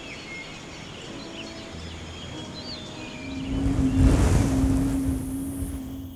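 A rushing, wind-like swell with a deep rumble and a low steady hum rises about three and a half seconds in, peaks a second later and dies away over the next two seconds. Birds chirp faintly in the first half.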